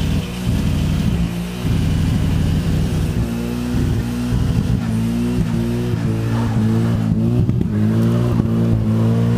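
Nissan 180SX's engine revving hard during a burnout, its rear tyres spinning and smoking. The revs flutter for the first few seconds, then are held high and steady.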